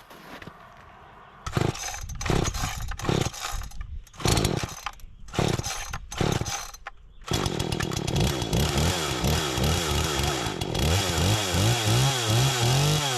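Husqvarna 38cc two-stroke chainsaw: short, broken bursts for a few seconds, then running continuously from about seven seconds in, its engine speed rising and falling.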